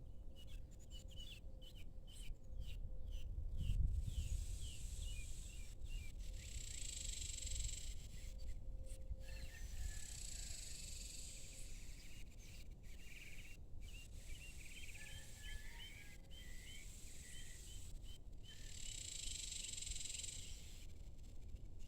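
Evening outdoor ambience: small birds chirping in quick short notes, with a high insect hiss swelling up and fading three times. There is a brief low rumble about four seconds in.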